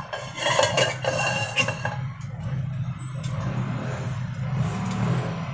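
Metal cookware clattering on the stovetop for about two seconds as a pan is swapped, then a steady low hum with a faint hiss of food cooking.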